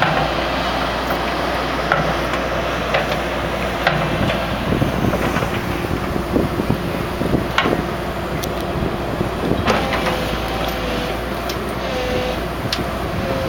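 Excavator's diesel engine running steadily, with scattered sharp knocks and clanks over it.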